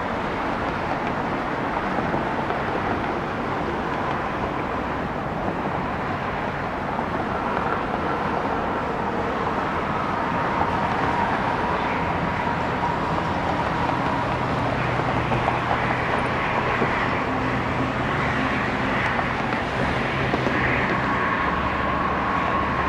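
Jet aircraft engines running steadily with a faint whine, growing a little louder in the second half.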